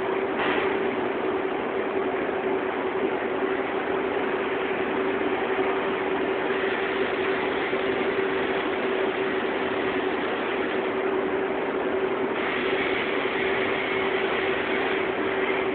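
Automatic fabric spreading machine running: a steady mechanical whirr with a constant hum tone. The sound gets brighter and harsher about twelve seconds in.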